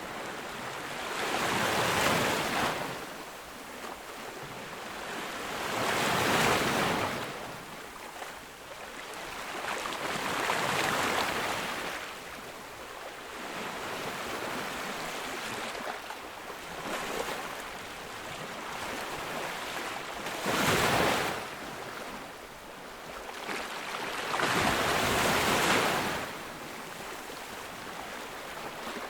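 Ocean waves breaking on a beach, in about five surges of surf that each swell and fade over a few seconds, with a steady wash between them.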